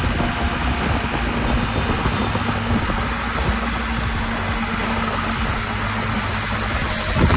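Truck engine idling with a steady low hum under an even hiss, with a sharp knock near the end.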